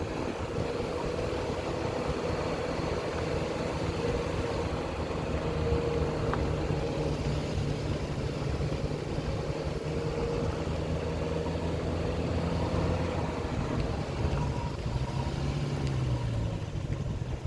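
Car engine running steadily with road noise while driving, the engine note swelling and shifting in pitch briefly near the end.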